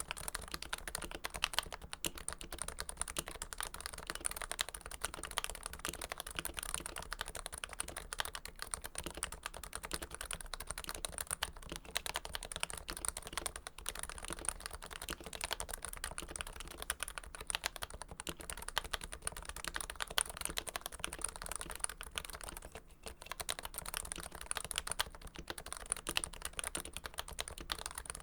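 Continuous typing on a Realforce tenkeyless keyboard with Topre switches lubed with Krytox 105, built from a Realforce Hipro plate in a first-generation Realforce TKL case. A dense, unbroken run of keystrokes, with a brief lull about 23 seconds in.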